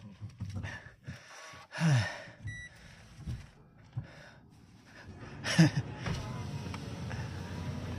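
Short breathy vocal sounds and a brief beep inside a car, then, from a little past halfway, the steady low rumble of the car's engine running.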